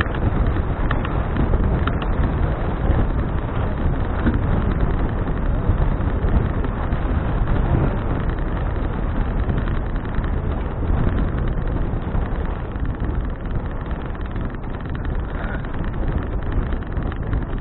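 Steady wind rumble buffeting an action camera's microphone on a moving bicycle, deep and unbroken with no distinct events.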